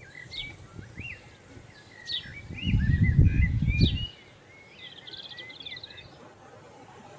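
A songbird singing a run of quick chirps and sliding whistled notes, ending in a short fast trill about six seconds in. A loud low rumble lasting about a second and a half covers the middle of the song.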